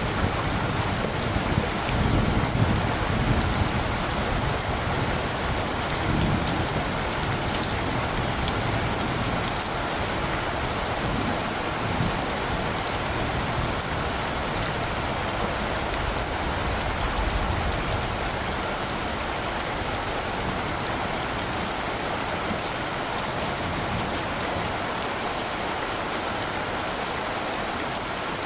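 Steady rain falling and pattering on surfaces, with a low distant rumble of thunder in the first half that fades away.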